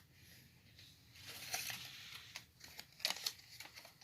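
Faint rustling and crinkling of paper, with a few small clicks near the end, as name slips are handled and drawn.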